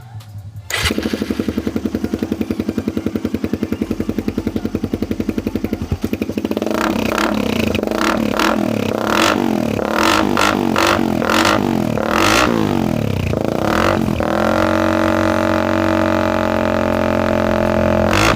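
Suzuki Raider R150 carb's single-cylinder four-stroke engine running through an aftermarket Akrapovic pipe with its silencer baffle removed, the open-pipe sound. It comes in suddenly about a second in and idles with a rapid, even exhaust beat. From about six seconds it is revved in quick blips, then held at higher revs for a few seconds, then blipped again near the end.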